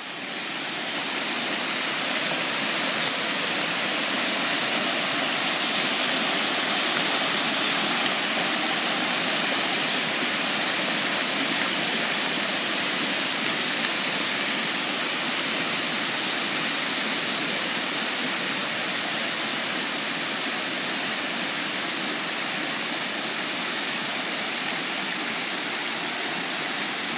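Flooded creek, its high water rushing steadily.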